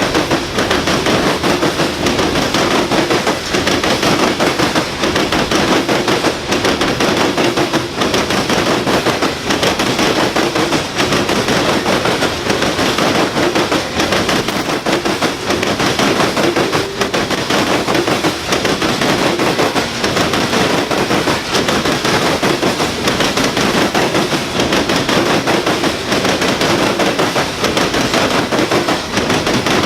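Loaded coal train rolling by, its steel wheels clattering over the rail joints in a dense, rapid, continuous run of clicks.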